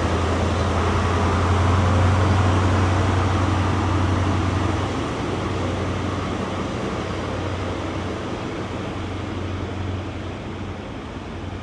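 Diesel train engine running with a steady low drone that slowly fades as the train pulls out of the station.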